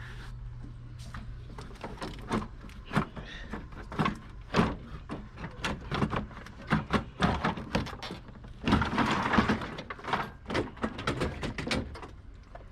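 Irregular knocks, clanks and clicks of hands and tools working the radiator and its fittings out of the car, with a longer scraping rattle about nine seconds in.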